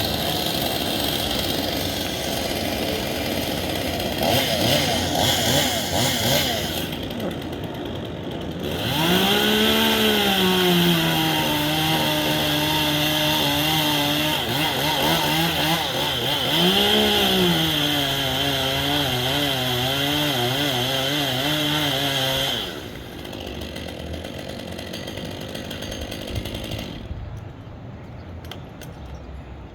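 Loud noise without a clear pitch, then a gas chainsaw revving up about nine seconds in and running steadily for about fourteen seconds, with a second rev midway. The saw stops near the end.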